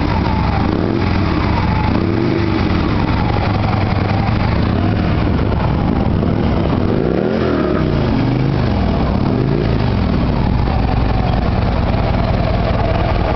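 2014 Harley-Davidson Street Glide's V-twin engine running, with several short throttle blips that rise and fall in pitch, most of them in the middle.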